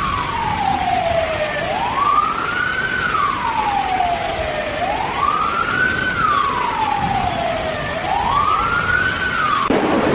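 An emergency vehicle siren wailing, its pitch rising quickly and falling slowly about every three seconds, over a steady rushing noise like heavy rain. It cuts off suddenly near the end.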